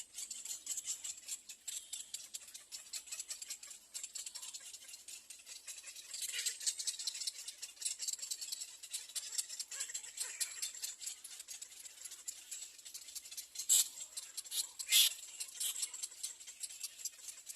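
Little egret nestlings begging for food: a fast, continuous rattling chatter of calls, with two louder, sharper calls near the end.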